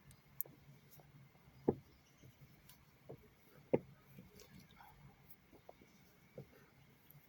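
Faint handling sounds while a black cat has her chin rubbed: soft low bumps and rustles, with two louder bumps about two and four seconds in.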